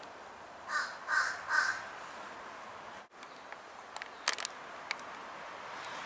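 A bird giving three short, harsh, caw-like calls in quick succession, followed a few seconds later by several sharp clicks.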